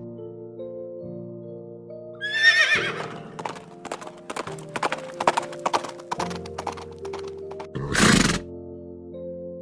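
A horse whinnying once, a falling neigh with a quavering pitch, then hooves clip-clopping for a few seconds and a short loud rushing burst near the end. Background music plays underneath.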